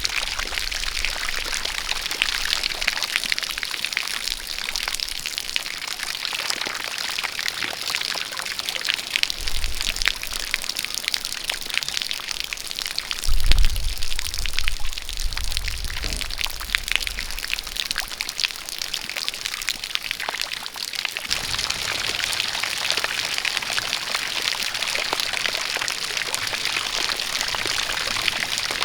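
Rain falling together with a jet of water pouring: a steady hiss full of fine drop patter. Low rumbles come and go around the middle, the strongest a little before halfway, and the hiss turns brighter and more even about two thirds of the way in.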